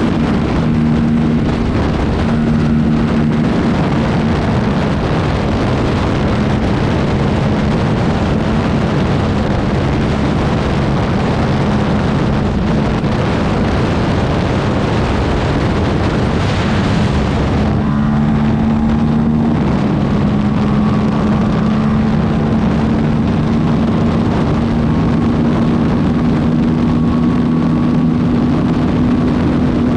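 Aprilia RS457's parallel-twin engine running at steady revs under way, with wind rushing over the microphone; the engine note breaks off briefly about eighteen seconds in, then picks up again.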